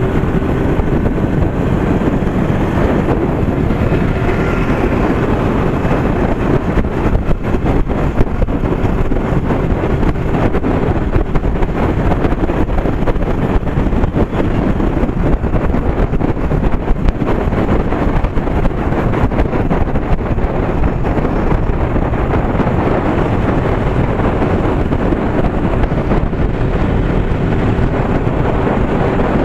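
Wind rushing over the microphone on a moving motorcycle, with the bike's engine running at a steady speed underneath.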